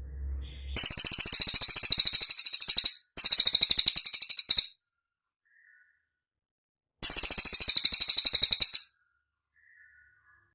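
A cililin bird singing three fast, high, rattling trills of rapidly repeated notes, each lasting a second and a half to two seconds. The third comes after a pause of a couple of seconds. A faint low rumble comes just before the first trill.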